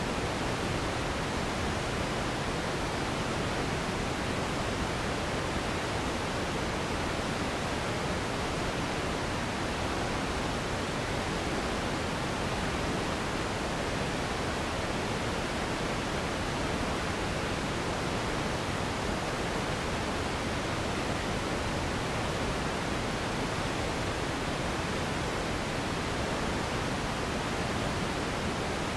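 Steady pink noise: an even, unchanging hiss with more weight in the low end than white noise.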